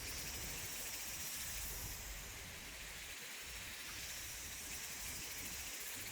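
Steady high hiss of outdoor background noise with a low rumble underneath and no distinct calls or impacts.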